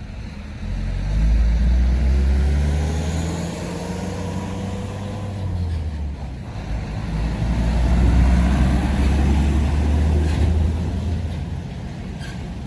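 Heavy truck engines running as trucks drive past, the sound swelling twice, about two seconds in and again near eight seconds, with a slowly rising whine during the first pass.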